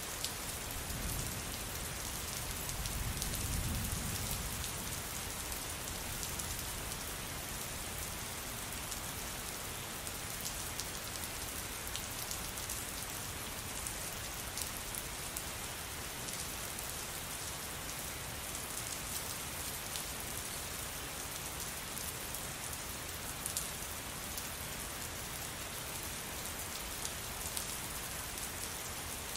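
Steady rain falling on a surface, an even hiss with scattered sharper drip ticks. A low rumble swells and fades over the first four seconds.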